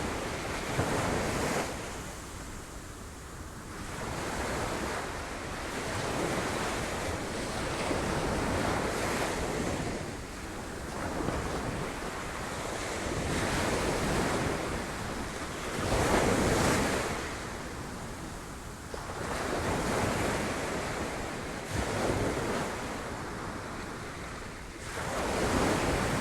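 Sea waves breaking against rocks, swelling and falling back every few seconds, with the loudest surges about two-thirds of the way through and again near the end.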